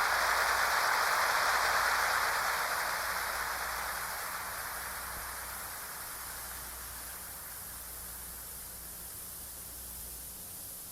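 Steady hiss of recording noise after the song ends. It fades over several seconds to a lower, even hiss with a faint hum beneath.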